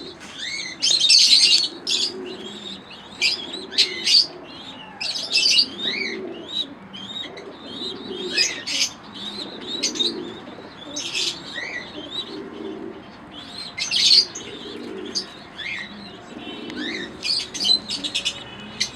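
Domestic pigeons cooing over and over, with frequent short, high chirps from small aviary birds on top.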